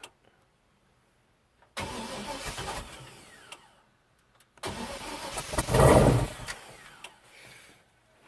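Chevrolet S10's swapped-in 6.0-litre V8 being cranked on its first start-up, in two attempts. The first lasts about two seconds and fades. The second, a second later, grows louder before dying away without settling into an idle.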